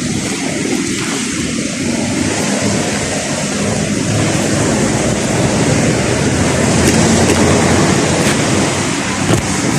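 A vehicle driving on a wet road in the rain: a steady rush of tyre and road noise mixed with rain, swelling slightly in the second half, with a few faint clicks near the end.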